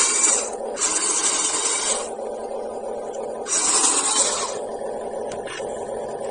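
Radio-controlled off-road car running, with a steady motor drone and loud rough bursts of about a second each as it accelerates over loose ground.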